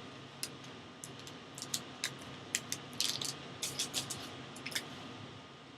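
Trading cards and their packaging being handled on a table as they are taken out of the box: a scatter of light clicks and crinkles at an irregular pace.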